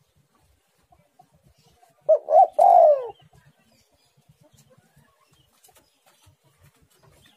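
Spotted dove cooing one phrase about two seconds in: two short notes and then a longer note that falls in pitch.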